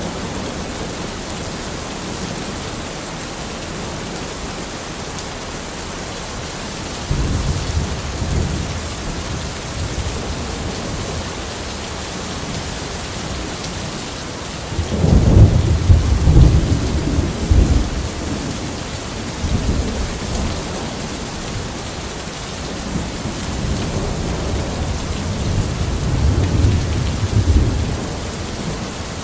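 Steady rain falling, with rolls of thunder: a first rumble about a quarter of the way in, the loudest about halfway through, and a longer, rolling one near the end.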